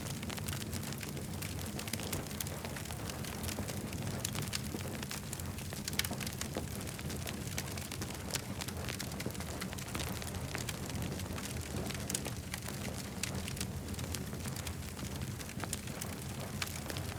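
Campfire crackling, with many small sharp pops over a steady low rumble.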